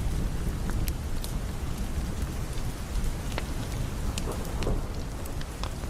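Heavy rain falling steadily with a deep low rumble, and scattered sharp crackles and pops from a wood fire burning in a fireplace.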